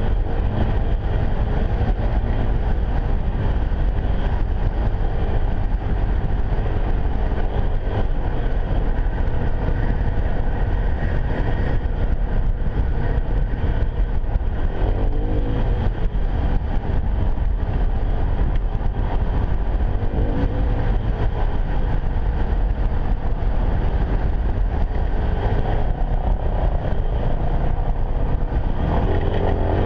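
Enduro motorcycle engine running steadily under way, with heavy low rumble of wind on the microphone.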